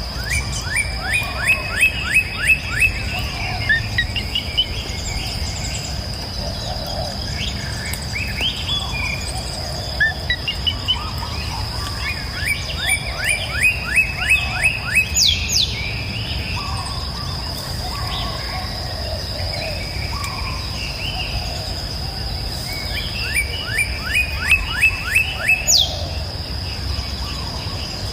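Songbirds singing. One bird repeats a fast trill of about ten short falling notes three times, with other chirps in between, over a steady high-pitched insect drone and a low rush of flowing river water.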